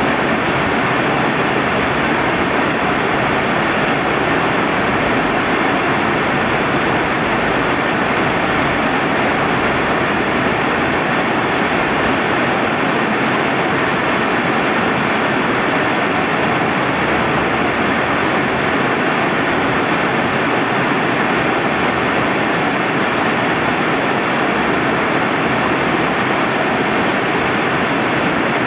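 Steady rain falling by a river, with running water: an even, unbroken hiss.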